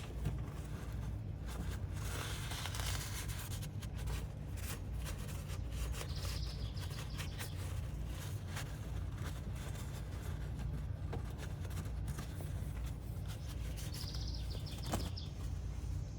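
Steady low background hum with scattered light clicks and taps, and a bird chirping twice: once about six seconds in and once near the end.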